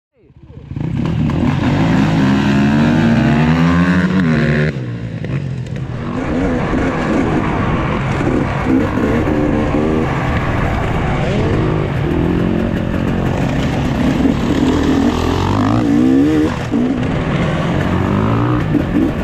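Enduro dirt bike engines revving hard and easing off in repeated rising and falling sweeps as the riders work the throttle through the gears, fading in about half a second in, with a brief throttle-off dip about five seconds in.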